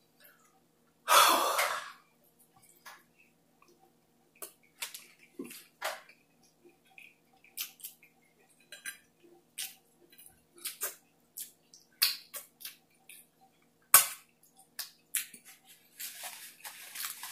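Close-up eating sounds: chewing with many small wet mouth clicks and lip smacks, and fingers being licked. There is one loud breath about a second in and a sharper smack near the end.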